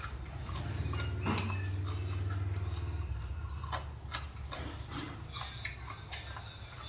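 A person chewing stewed pork hock close to the microphone: irregular wet mouth clicks and smacks, over a low steady hum that fades about halfway through.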